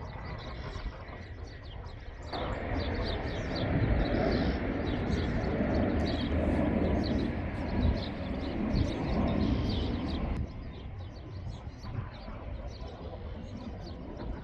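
Wild birds chirping and tweeting in short repeated calls. From about two seconds in, a louder steady rushing noise rises under them and cuts off suddenly about ten seconds in.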